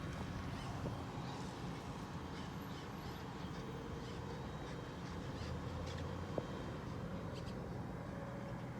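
A steady low vehicle rumble with a few short bird calls scattered over it, and a single sharp click about six seconds in.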